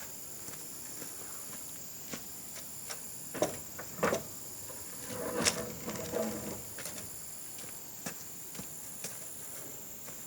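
Scattered light knocks and taps, a few louder ones in the middle, over a steady high insect drone.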